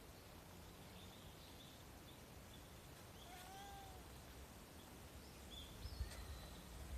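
A single faint cat meow about three seconds in, a short call that rises and falls in pitch, from a tabby-calico cat. Otherwise near silence, with a few faint high chirps.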